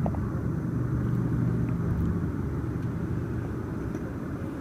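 Steady low rumble with a low hum that fades out about halfway through, the whole sound easing slightly in level.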